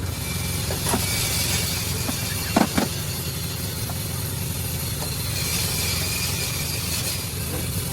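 Engine running steadily, with a faint knock about a second in and a louder double knock about two and a half seconds in.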